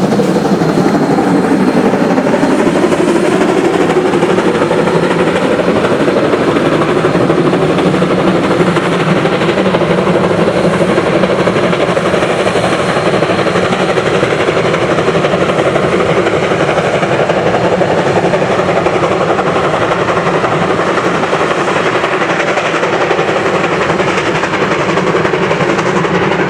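Geared steam logging locomotive working, its exhaust a loud, steady, fast chuffing that holds on without a break.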